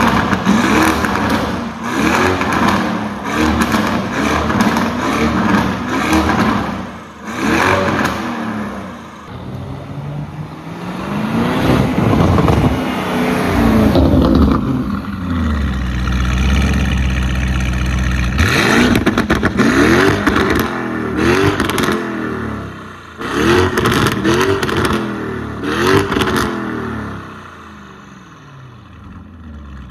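Lamborghini Urus twin-turbo 4.0-litre V8 with catless downpipes and a Stage 2 tune, revved over and over in short throttle blips, its pitch climbing and falling each time. About halfway through there is a longer rev and a stretch of heavy, low, steady engine sound.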